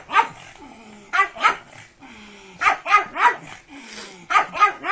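A dog barking repeatedly, about eight short barks in quick groups of two or three.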